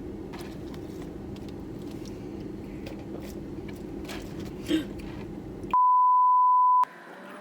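Steady low background noise with faint rustles and a small knock, then, near the end, a single pure high beep lasting about a second while all other sound cuts out: an edited-in censor bleep.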